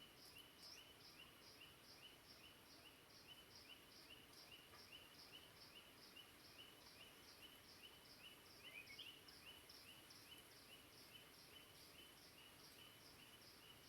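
Quiet, high chirping birdsong repeated evenly about three times a second, with a different short gliding call about nine seconds in, over a faint steady hiss.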